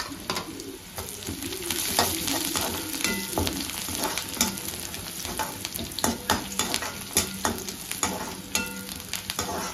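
Sliced onions and green chillies sizzling in hot oil in a kadai, stirred with a perforated metal spatula that scrapes and clinks against the pan many times over a steady hiss.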